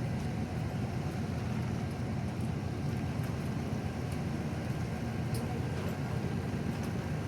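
Steady low rumble and hum of the Amtrak Silver Meteor passenger train standing at the platform, with rain falling.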